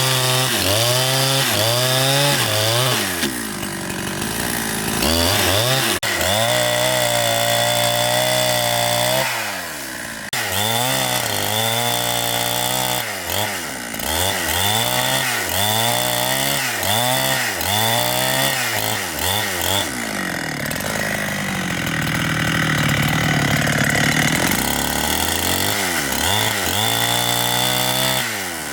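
Large chainsaw running, its engine revving up and down again and again, about once a second. Near three-quarters of the way through it holds a lower, steadier pitch for a few seconds.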